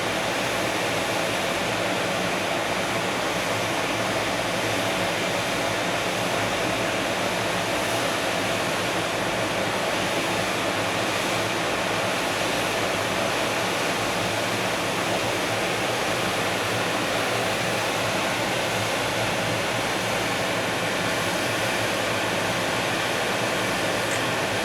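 Steady, unchanging whirring hum of a standing EF510 electric locomotive, its machinery running while it waits to depart.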